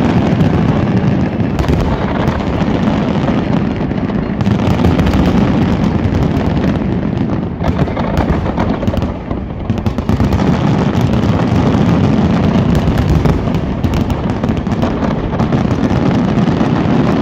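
Large aerial fireworks shells going off in a dense, continuous barrage: booms and crackles follow so closely that they merge into one loud, unbroken rumble.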